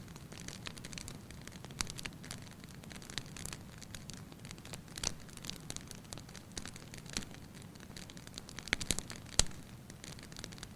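Wood fire crackling in a fireplace: irregular sharp pops and snaps over a soft steady hiss, with a cluster of louder pops near the end.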